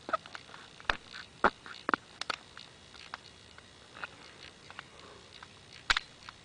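Sharp, irregular clicks and cracks of a knife cutting into a hard, woody sucupira seed pod to open it.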